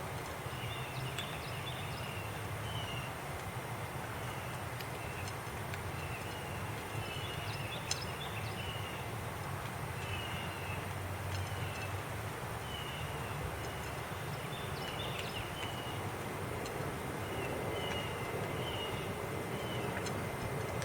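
Outdoor ambience: a steady low rumble with short high chirps repeating about once a second throughout, and a faint steady high whine.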